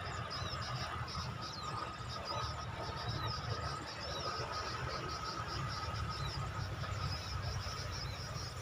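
Outdoor field ambience: insects trill continuously alongside fast, repeated high chirps, over a steady thin high tone and a low rumble.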